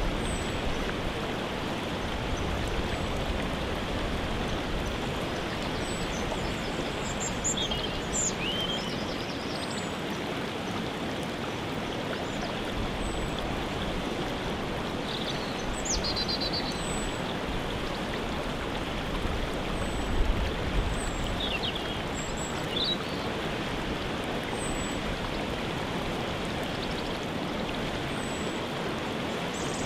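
Steady rush of a waterfall, with short high bird chirps and trills breaking in above it every few seconds.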